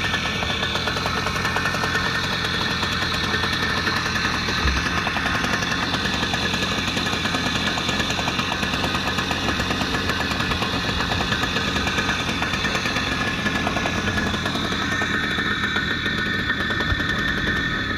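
Motorcycle engine running steadily, a dense rapid rattle that holds the same pitch throughout.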